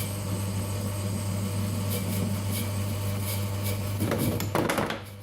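Metal lathe running with a steady hum while a reground twist-drill tool faces aluminium stock. About four seconds in, the cut turns loud and rough for about a second, the chatter of facing long stock, which leaves big gouges.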